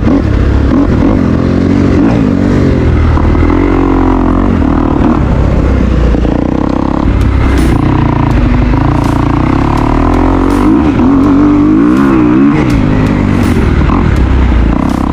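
Dirt bike engine running under load, its pitch rising and falling as the throttle is worked, with scattered sharp ticks from about halfway in.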